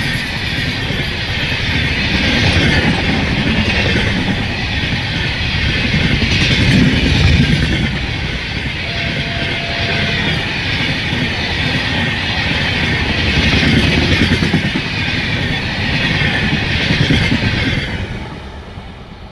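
Passenger express train passing at speed, its wheels rumbling and clattering over the rail joints in a continuous loud clickety-clack. The noise drops off sharply near the end as the last coaches go by.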